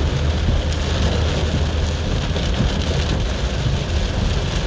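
Rain pattering steadily on a car, over the steady low rumble of the car driving.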